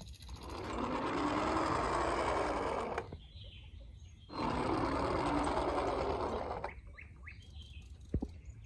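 Small motor whirring in two bursts of about two and a half seconds each, with a short pause between them.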